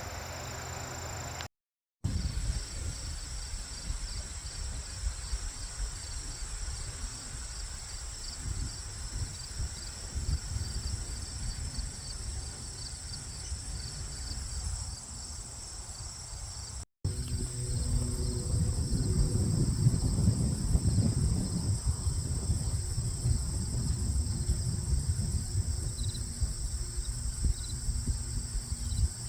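Crickets chirping in a steady, high, pulsing trill, over a low rumble that grows louder in the last twelve seconds.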